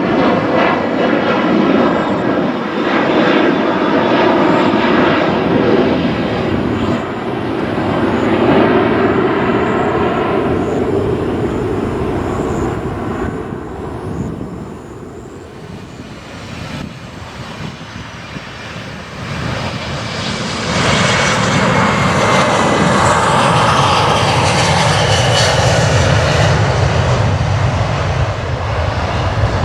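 Jet aircraft engines running loud through the first ten seconds or so, easing off, then rising sharply again about twenty seconds in and staying loud until near the end.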